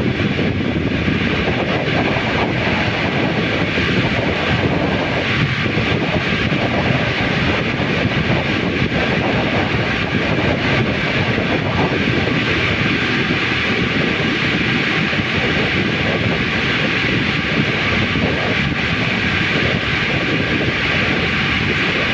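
Steady, loud machinery running without a break, a constant rumble and hiss with a faint hum in it.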